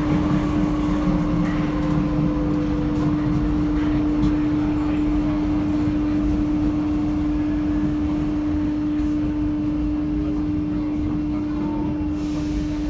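Paris Métro line 7 train heard from aboard a carriage, running with a continuous low rumble and a steady electrical hum. A fainter whine falls gently in pitch over the first few seconds.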